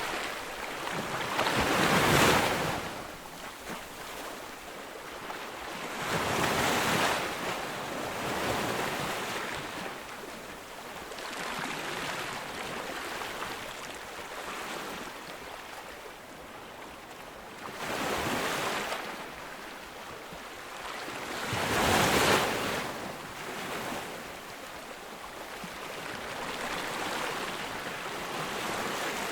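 Ocean waves breaking on a beach, each wave building to a crash and washing back. The crashes come every few seconds, the loudest about two seconds in and again near the end.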